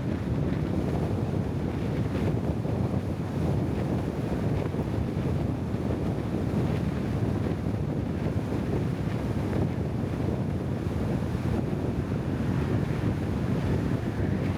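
Steady low rushing of wind buffeting the microphone, unbroken throughout.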